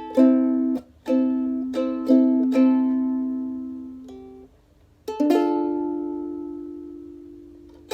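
Ukulele playing: a run of five strummed chords, a short pause with one soft note, then a single chord strummed about five seconds in and left to ring out slowly for nearly three seconds.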